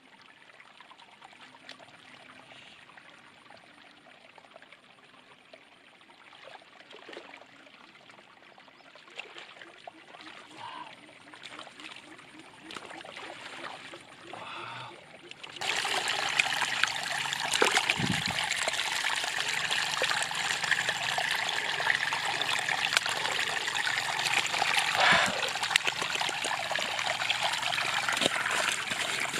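Water trickling faintly, then about halfway through a sudden jump to a loud, steady rush of flowing stream water.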